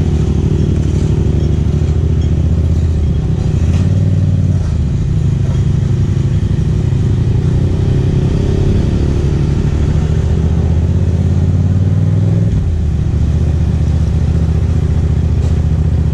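Yamaha MT-07's 689 cc parallel-twin engine running steadily while riding. The engine note shifts about four seconds in and dips briefly a little past twelve seconds in.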